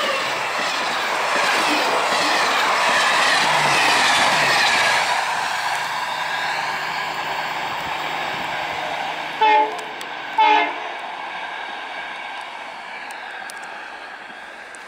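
A train running past, its steady rumble loudest in the first few seconds and then fading as it moves away. About nine and a half seconds in, the horn gives two short blasts about a second apart, the loudest sounds here.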